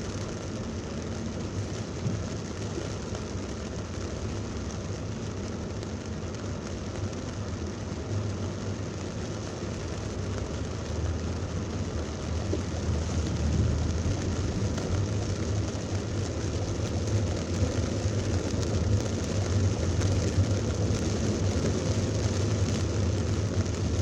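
Heavy rain on a car in traffic, with steady low engine and tyre noise; it gets louder about halfway through.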